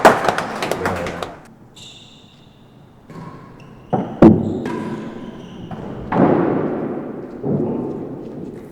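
Sharp racquet-on-ball strikes and thuds of a real tennis ball off the walls, echoing in the enclosed court: a pair of quick cracks about four seconds in, then two heavier hits that ring on.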